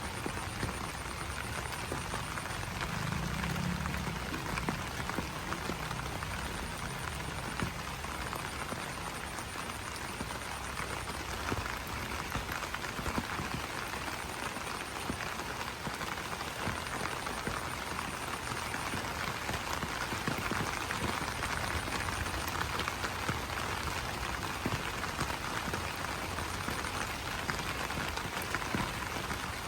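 Steady rain pattering on broad banana leaves. A low call comes through about three seconds in, and a faint high pulsing trill comes and goes.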